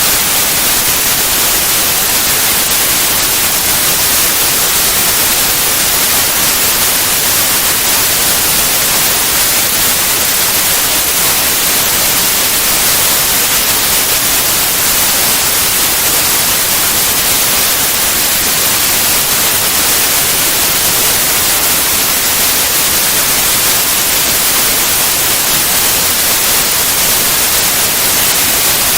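Synthetic white noise: a loud, steady, unchanging hiss, brightest in the high end, with no other sound.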